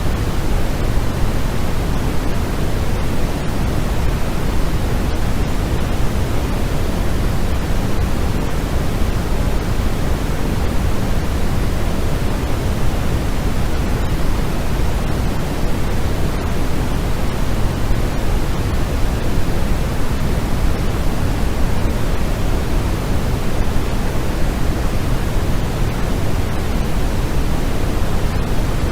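Steady white noise for sleep: an even, unbroken hiss with most of its weight in the low end, closer to pink noise, with no changes or events.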